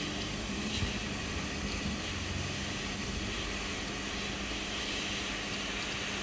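Hot-air heat gun blowing steadily: a constant airy hiss over a low, even hum.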